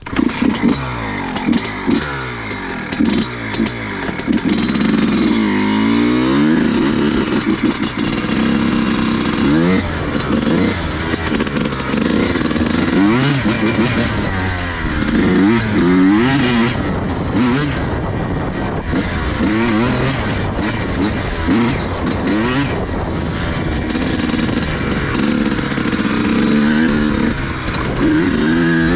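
Pit bike engine catching and starting right after its spark plug has been cleaned, then revving up and down over and over.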